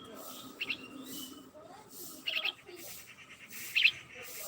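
A bird chirping: short clusters of quick high notes, repeated three times about a second and a half apart.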